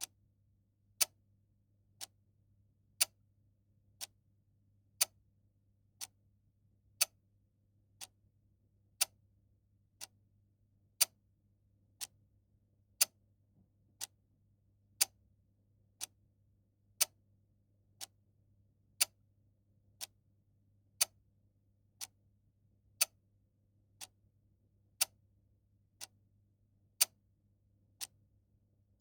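Clock ticking steadily once a second in a tick-tock pattern, the ticks alternating louder and softer, over a faint low hum.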